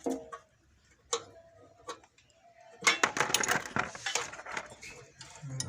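Hand work on metal parts: a few separate sharp clicks, then about two and a half seconds of dense, irregular clinking and clattering.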